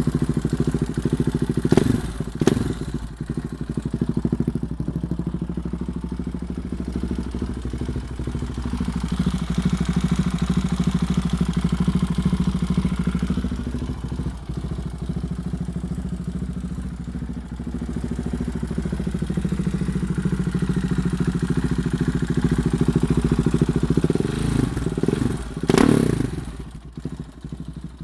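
KTM 690 Duke's single-cylinder engine running through a Lextek XP8C aftermarket exhaust and decat pipe with the baffle removed, giving a loud, open exhaust note. It idles steadily, with two quick throttle blips about two seconds in and a few longer rises in revs, the last one dropping back near the end.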